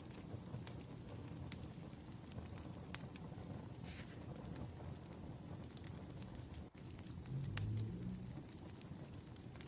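Wood fire crackling, with scattered sharp pops over a steady low rumble. A short, louder low rumble comes about three-quarters of the way through.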